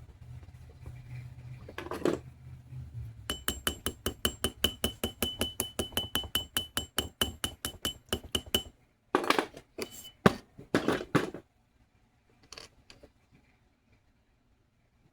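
Fast, even taps of a hammer on metal, about five a second, with a steady ringing tone over them, followed by a few heavier knocks and clatter before it stops.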